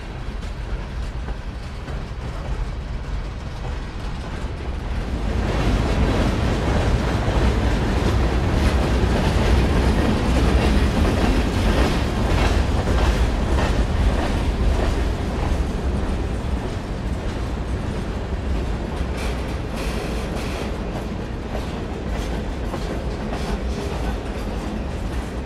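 Norfolk Southern freight train rolling past, its steel wheels clicking over the rail joints. It gets louder about five seconds in and eases off again after about fifteen seconds.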